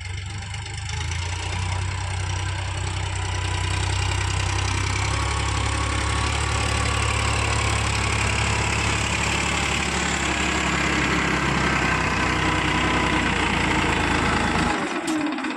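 Heavy diesel engine of a tractor or backhoe loader running steadily, a deep low drone under a higher mechanical noise. The low drone stops abruptly near the end.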